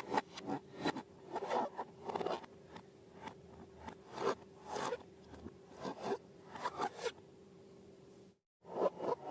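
Slime being worked by hand, giving irregular short crackling, sticky squishes a few times a second. The sound cuts out briefly near the end.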